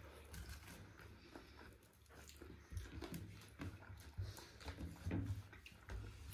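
Close-up eating sounds: chewing and biting, with many small irregular clicks and smacks of the mouth over a low rumble.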